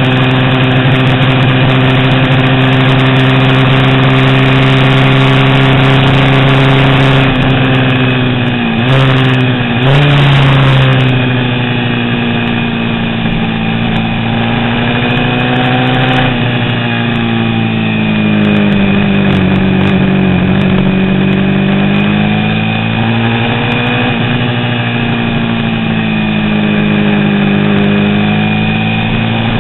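Vintage 350 cc racing motorcycle engine running hard and continuously. Its pitch dips sharply twice about nine and ten seconds in, then sinks and climbs slowly several times.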